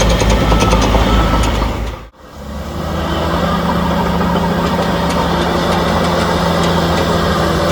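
Heavy diesel engine of earthmoving equipment running steadily, with a rapid light ticking over it in the first two seconds. The sound cuts out briefly about two seconds in, then a steady engine drone resumes.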